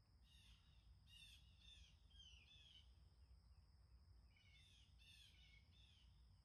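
Faint bird chirps: short falling notes in quick runs of three or four, coming in several bouts, over a steady high whine and a low rumble.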